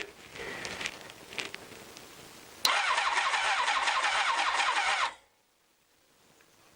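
Honda CBR1000F's inline four-cylinder engine turned over on the electric starter without firing, a burst of cranking of about two and a half seconds that starts abruptly a little way in and cuts off suddenly. It is being spun to get oil round a long-stored engine and put out the oil pressure light; the cranking sounds weak, which the owner puts down to a battery run down by testing the wiring.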